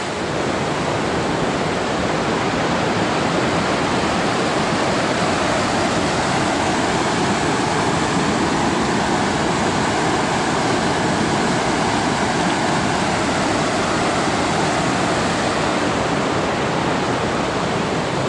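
Dick's Creek Falls cascading into the Chattooga River: a steady rush of falling water.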